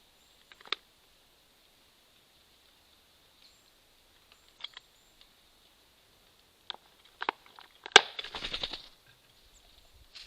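Birds tapping and knocking on a wooden squirrel feeder as they take seeds and nuts: scattered single taps, then a sharp knock followed by about a second of rattling about eight seconds in.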